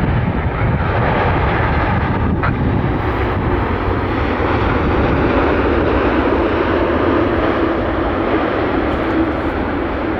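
Jet airliner's engines passing close by: a loud, steady rumble with a faint hum showing through in the second half.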